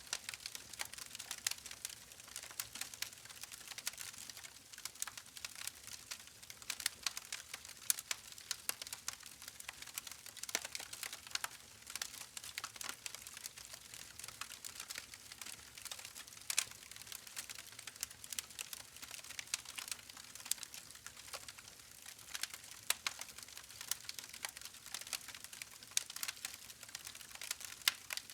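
Campfire burning, a steady hiss of flames with dense, irregular crackles and pops from the burning wood.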